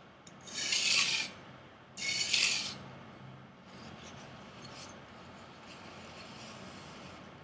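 Chinese chef knife's steel edge stroked across 320-grit sandpaper to convex the bevel: two loud rasping strokes in the first three seconds, then lighter, fainter scraping.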